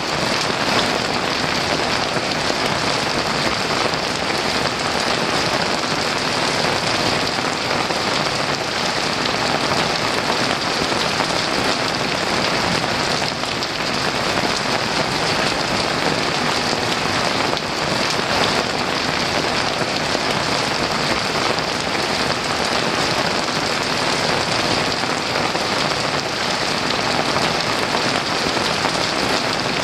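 Heavy rain falling steadily, an even, unbroken downpour with no thunder.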